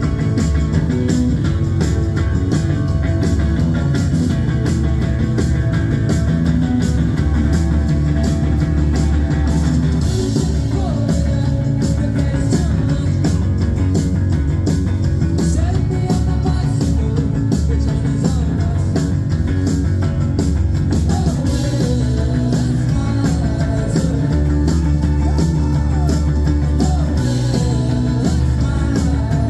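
Live indie rock band playing, with guitars, bass and drums. Sung vocals come in about ten seconds in.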